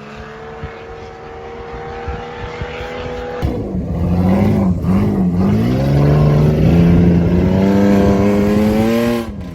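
A mud drag 4x4's engine running at high revs down the track. About three seconds in it gets suddenly louder, the revs dip and rise a few times and are then held high, and it cuts off suddenly near the end.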